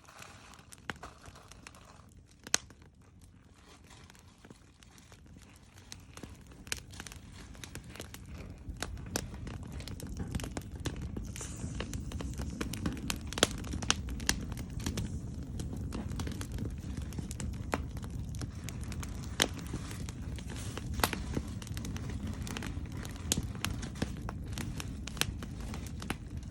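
Wood campfire crackling, with irregular sharp pops over a low rushing noise that grows louder during the first ten seconds as the fire builds.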